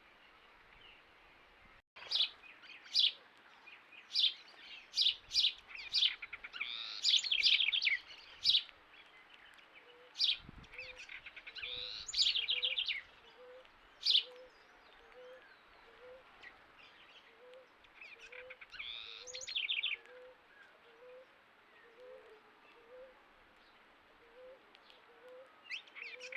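Several wild birds calling: sharp single calls repeated in quick succession, mixed with short fast trilled songs, starting about two seconds in. Through the second half a faint low note repeats about once a second.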